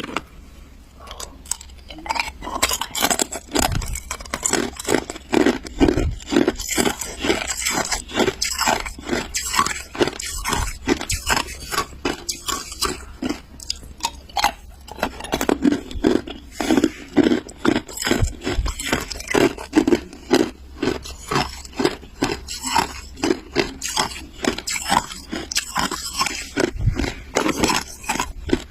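Ice being bitten and chewed: a steady run of crisp crunches, several a second.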